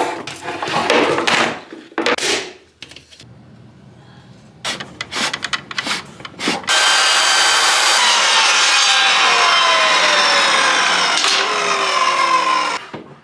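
A few seconds of scraping and knocking as wood is handled, then a power tool cutting into wood for about six seconds, its pitch slowly falling as it works, before stopping abruptly.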